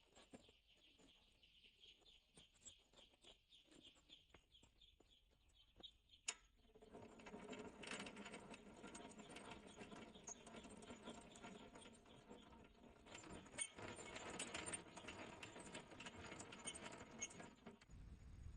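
Faint peeping of young chickens with light pattering and clicking. The pattering grows busier after a sharp click about six seconds in, then stops shortly before the end.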